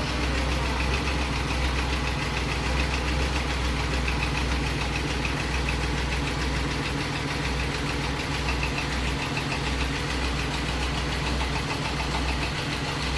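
Mercedes-Benz M104 straight-six engine idling steadily with a regular knock. The knock is present after a major overhaul.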